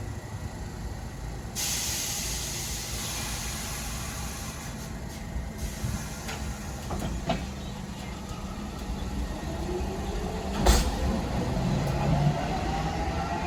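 New York City subway train's air brakes letting out a sudden loud hiss that fades over a few seconds. Later a rising motor whine comes in as a train accelerates, with a sharp clank about eleven seconds in.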